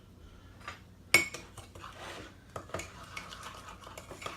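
A spoon stirring butter and sugar in a cup: one sharp clink against the cup about a second in, then quick, light scraping and tapping as the mixing gets going.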